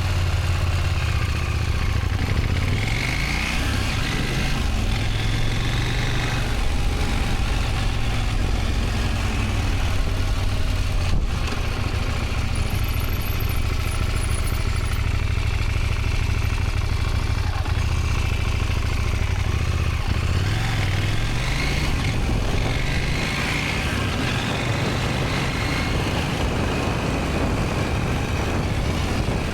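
Motorcycle engine running at low speed, its pitch rising and falling a few times with the throttle during slow-speed riding manoeuvres.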